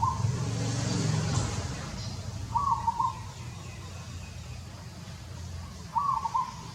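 A bird repeating the same short call about every three seconds, three times, over a steady low hum.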